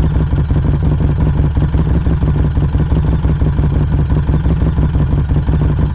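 Exhaust of a 2019 Harley-Davidson Street XG500's 500 cc V-twin through a Firebrand Loose Cannon slip-on muffler, heard close up at the muffler. The engine runs steadily, with fast, even pulses and no revving.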